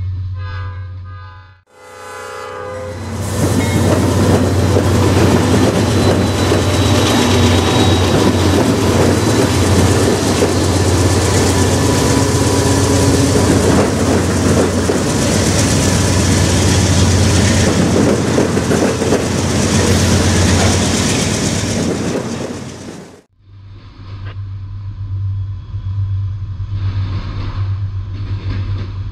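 A freight train going past a road crossing: a train horn blast in the first few seconds, then the loud rumble and clatter of the train's wheels on the rails, which cuts off suddenly about 23 seconds in. After that the passing freight cars are heard more muffled from inside a car, over a steady low hum.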